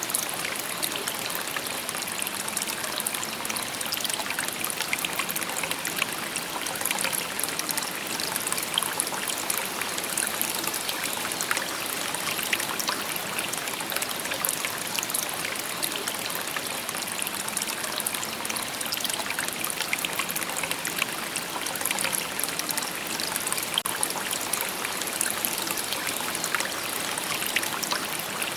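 Shallow river babbling over stones: a steady, even rush of trickling and splashing water with many small bright splashes, no change throughout.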